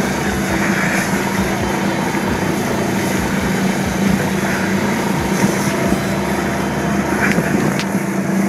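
Golf cart driving at a steady speed over a rough trail: a constant motor drone with a noisy rush over it.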